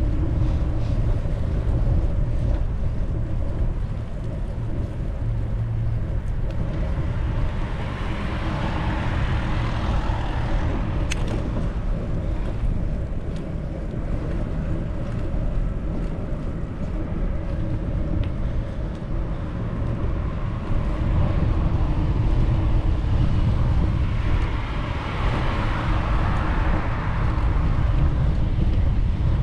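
Wind buffeting the microphone in a heavy, steady low rumble, with a steady hum underneath. A broader hiss swells up and fades away twice.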